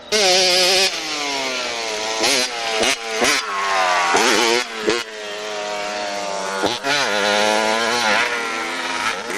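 Motorcycle engines at high revs, their pitch climbing and dropping again and again as the throttle opens and the gears change, with a couple of abrupt breaks in the sound.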